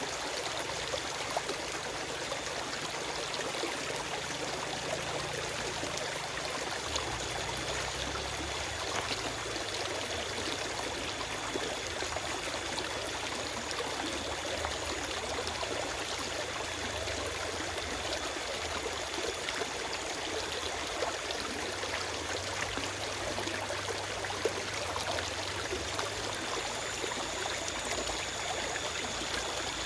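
Forest stream flowing steadily over rocks, a continuous rushing and trickling of water with no birds.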